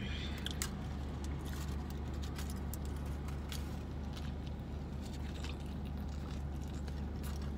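A person biting into and chewing a mouthful of burrito, with scattered clicks and crinkles from its aluminium-foil wrapper, over a steady low hum in a car's cabin.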